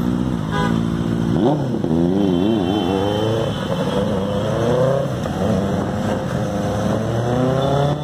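Benelli 600i motorcycle's inline-four engine revving through its exhaust: a few quick throttle blips with the pitch swinging up and down, then a slower climb to higher revs that is held before falling off near the end.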